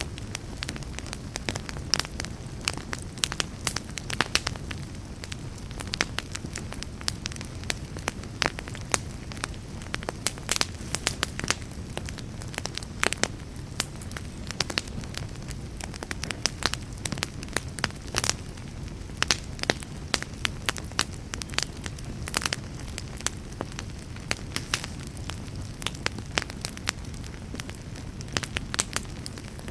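Campfire burning: dense, irregular crackles and pops over a steady low rumble of the flames.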